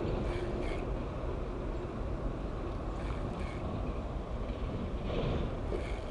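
A passing train rumbling steadily, with a few brief, faint higher sounds over it.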